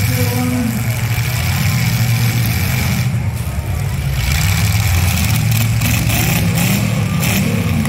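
Demolition derby cars' V8 engines running and revving together across the dirt arena, one climbing in pitch near the end.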